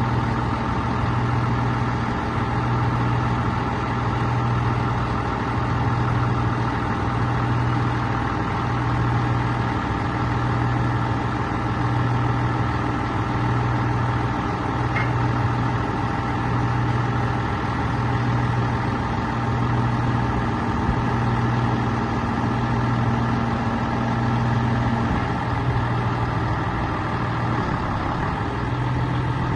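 Scania 113H-320 truck's 11-litre straight-six turbo diesel idling steadily, its low hum swelling and fading regularly about every second and a half.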